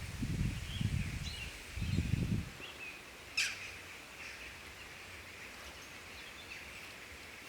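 Forest ambience: scattered bird chirps over a steady high hiss, low rumbling for the first two and a half seconds, and one sharp pop a little over three seconds in.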